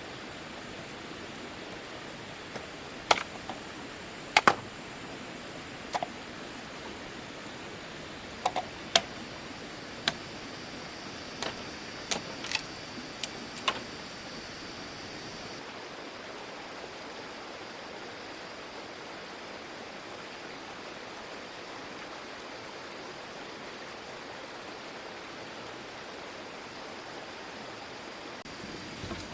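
Steady rushing hiss, like a stream or waterfall, with a dozen or so sharp clicks and knocks in the first half as a tomato trellis is worked on and tied.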